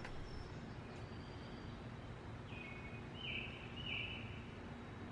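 Quiet woodland ambience: a faint steady hiss, with a bird giving three short, high, even-pitched notes in a row a little past halfway.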